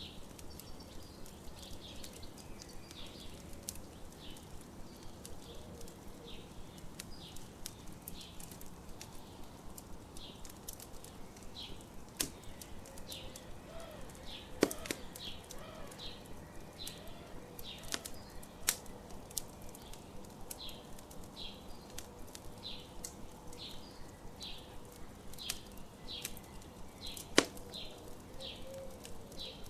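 Campfire crackling, with scattered sharp pops standing out several times. A bird chirps over it in short repeated notes, about one or two a second, mostly in the second half.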